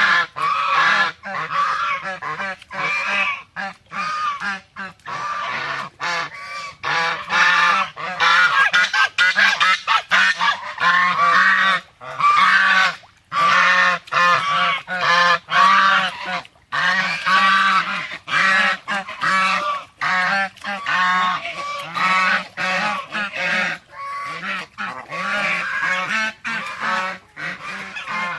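Swans honking: a flock calling over and over, with many short nasal honks overlapping and only brief pauses.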